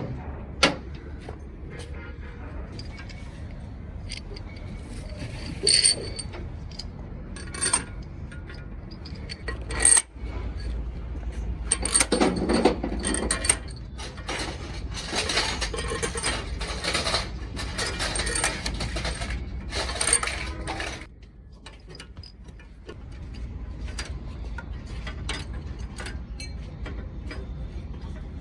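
Scattered metallic clinks and clanks of tools and engine parts being handled, over a low steady hum that dips briefly about three-quarters of the way through.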